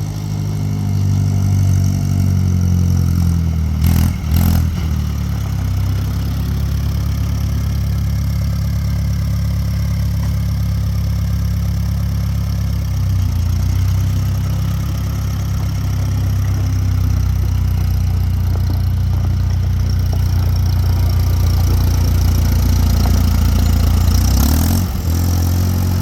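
Case VAC tractor engine running steadily at a low, even speed. Its speed dips briefly and recovers about four seconds in and again near the end.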